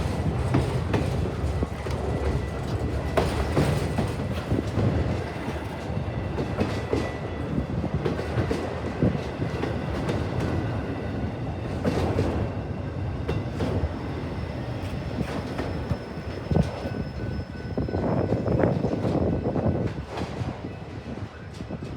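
A train rolling past, its wheels clicking over rail joints with a steady rumble and a faint high squeal from the wheels.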